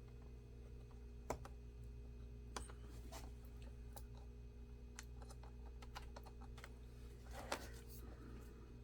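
Scattered small clicks and taps of laptop internals being handled while the battery cable is plugged in, with a louder cluster of clicks near the end, over a faint steady hum.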